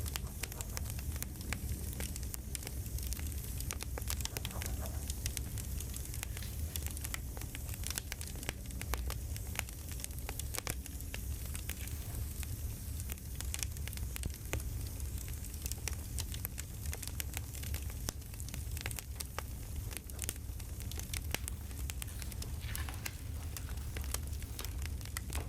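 Crackling campfire: a steady low rumble of flames with many small pops and snaps throughout.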